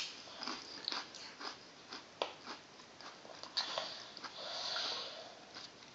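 A small child eating a cheese stick: faint scattered clicks and smacks of chewing, with a soft breathy sound about four and a half seconds in.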